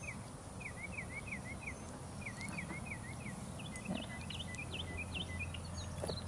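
A bird singing a steady string of short slurred chirps, about three a second, that changes about three and a half seconds in to higher, quicker notes, over a low outdoor rumble. A couple of faint knocks sound near the end.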